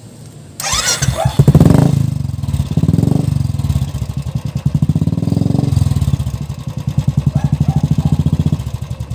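Royal Enfield Classic 350's single-cylinder engine, breathing through an aftermarket Dolphin premium exhaust, starting about half a second in and then running at idle with an even thumping beat. There are a brief blip of the throttle soon after it catches and smaller rises in pitch later on.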